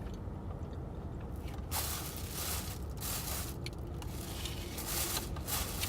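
Close-up chewing and crunching of fried chicken wings in irregular bursts, over a steady low rumble inside a car.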